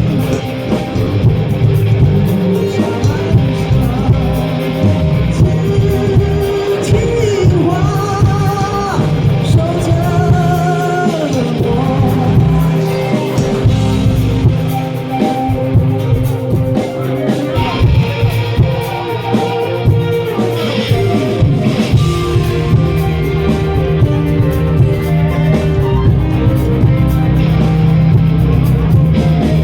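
Live rock band playing a song, with singing over electric guitar and drums.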